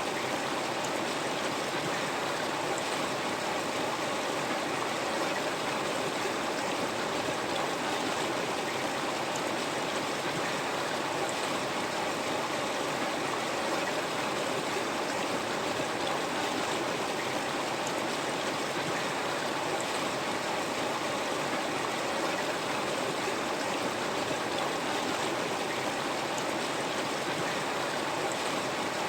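River water flowing over rocks, a steady, even rush with a little gurgling.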